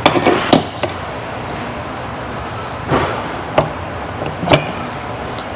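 Sharp knocks and clinks of tools and parts being handled during an engine teardown: a quick cluster near the start, then single knocks about three, three and a half and four and a half seconds in. Under them runs a steady background noise.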